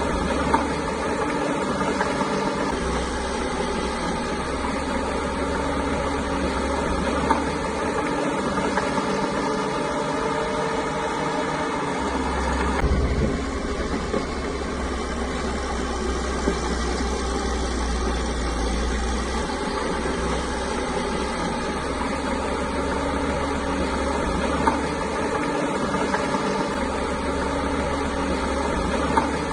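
Caterpillar bulldozer's diesel engine running steadily, with a few short knocks; the engine note changes about thirteen seconds in.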